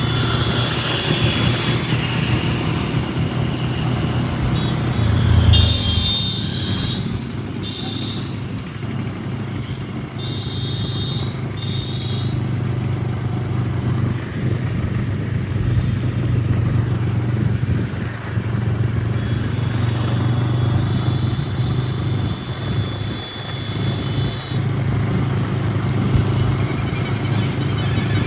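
A motor vehicle engine running steadily with road noise. A few short high-pitched tones come and go over it.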